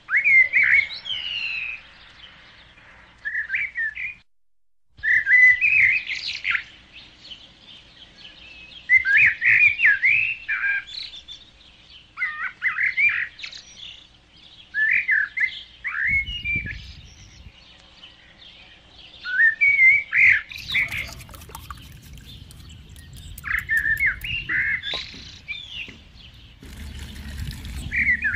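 Birds chirping in short, quick phrases, repeated again and again with brief pauses. The sound cuts out completely for about a second near the start, and a low rumbling noise with a few sharp clicks comes in during the second half.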